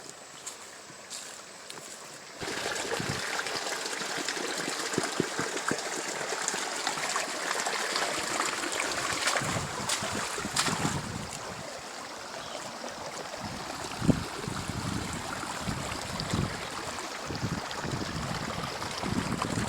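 Water running and splashing in a small rice-field stream, coming in suddenly about two seconds in as a steady rush, with scattered knocks and low thumps in the second half.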